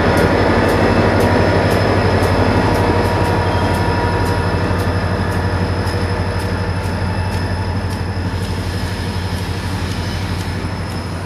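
Freight cars rolling slowly past as a Norfolk Southern EMD GP40-2 diesel locomotive shoves them. A steady low rumble runs under a regular light clicking and faint wheel squeal, getting gradually quieter.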